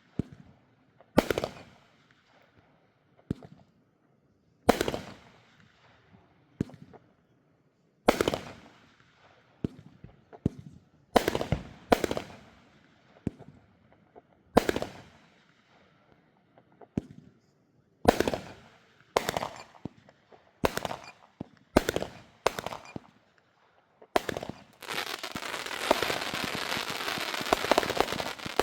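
Fireworks going off: a series of sharp bangs at uneven intervals, each trailing off in a short echo. The bangs come closer together in the second half. For the last few seconds they merge into a dense, unbroken stretch of rapid pops.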